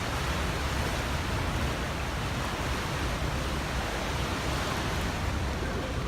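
Steady rush of wind and water from a motorboat under way in rough sea, over the low, even drone of its engine.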